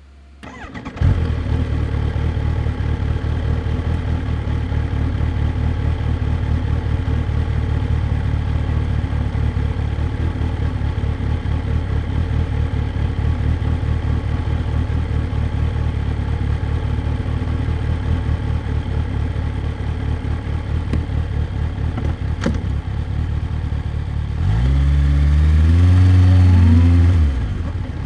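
Kawasaki Ninja H2's supercharged inline-four engine coming to life about a second in, then idling steadily. Near the end a single throttle blip rises and falls in pitch before it drops back to idle.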